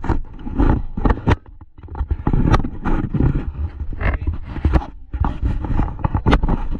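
A rapid, irregular series of loud knocks and scrapes, with dull low thumps among them.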